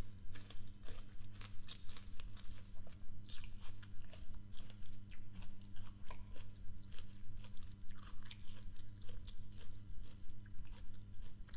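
A person chewing a mouthful of crisp raw fruit, with wet crunching about two to three times a second, over a steady low hum.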